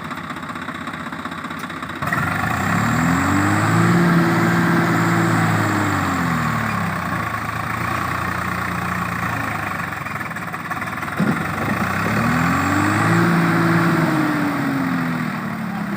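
Swaraj tractor's diesel engine running and revved up twice: each time the pitch climbs, holds for a few seconds, then drops back toward idle.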